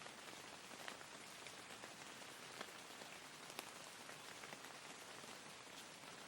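Faint steady rain: an even hiss with scattered sharper drop ticks.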